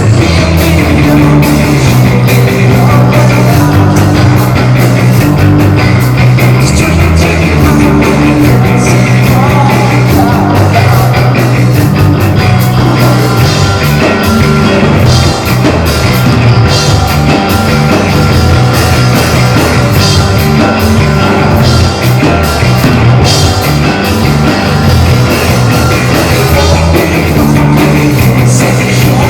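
Live rock band playing loudly: a steady driving beat with bass and guitar, the full band coming in at full volume right at the start.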